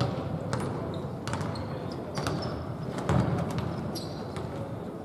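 A basketball bouncing on a hard court: a handful of irregular thumps, the heaviest about three seconds in, with a few short high squeaks between them.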